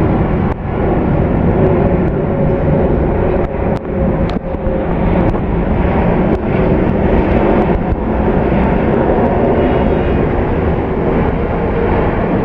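Boeing 747-8 freighter's four GEnx jet engines running loud and steady, with a constant rumble and a faint hum.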